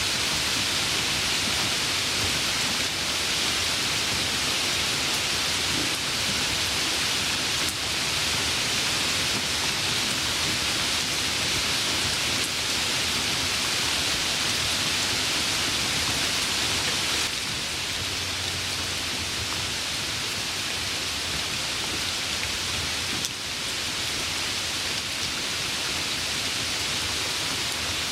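Steady heavy rain, a dense even hiss with no distinct drops.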